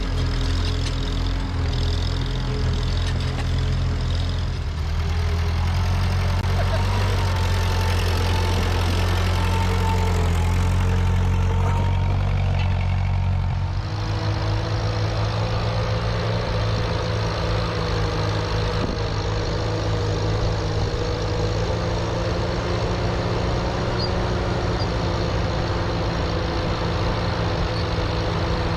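Classic farm tractor engines running steadily. The engine note changes abruptly about five seconds in and again about fourteen seconds in, as if a different tractor is heard each time.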